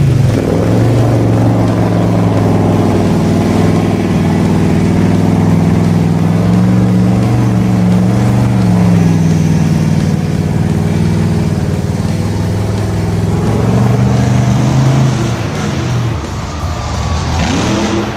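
A vehicle engine running at fairly steady revs, its pitch rising and falling slightly, then dropping away near the end.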